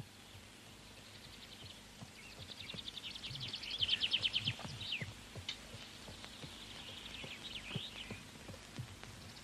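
Birds calling in fast, high trills that swell about four seconds in and again near eight seconds, with a few short falling chirps, over faint outdoor background noise.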